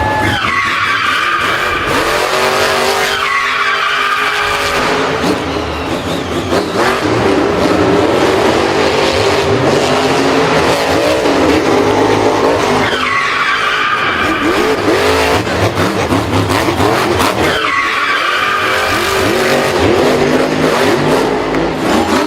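Vehicle engines revving hard with tyre skidding, the engine pitch sweeping upward several times.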